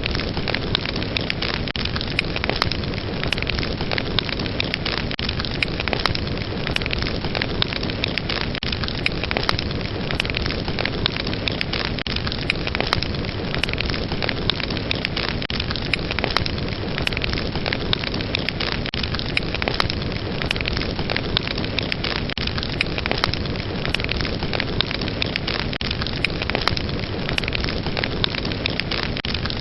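Fire burning with a steady rush and dense, irregular crackling, many sharp pops a second.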